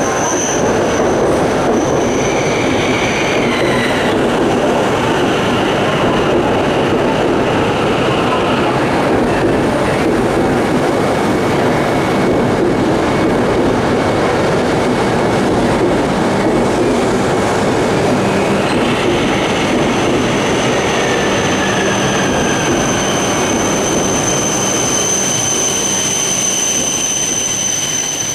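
E5 series Shinkansen train, coupled to an E3 series set, rolling slowly into the platform with a steady rumble. A high, steady squeal sets in about two-thirds of the way through and grows louder as the train slows.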